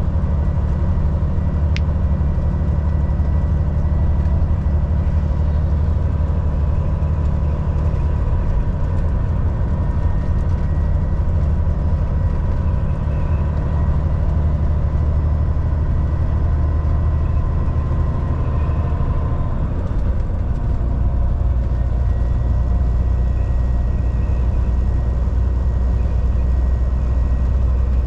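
Volvo VNL 760 semi truck's diesel engine running steadily under way, with a constant low hum and tyre and road noise. About two-thirds of the way through, the engine note shifts lower and gets stronger.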